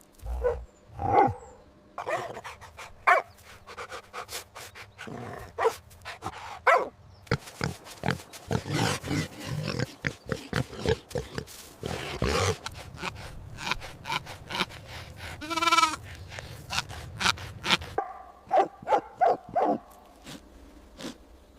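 Dogs barking in a series of short recorded clips, with a drawn-out, wavering cry a little past the middle and a quick run of barks near the end.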